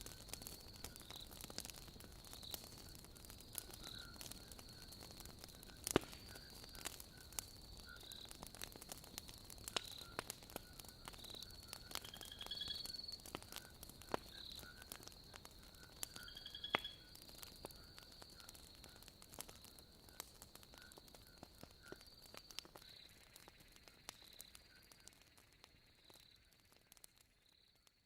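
Wood logs burning in a fireplace, crackling with scattered sharp pops, two louder ones about six seconds in and near the middle, over a steady high chirping night chorus of insects or frogs. Everything fades out over the last few seconds.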